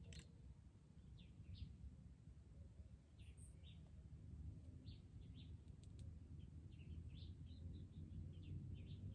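Faint, scattered short bird chirps, thickest in the second half, over a low rumble, with a couple of sharp clicks.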